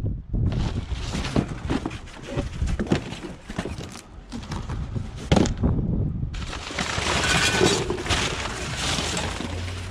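Scrap being handled and pulled apart by hand: repeated knocks and clanks with a sharp crack about five and a half seconds in, over a steady noisy hiss.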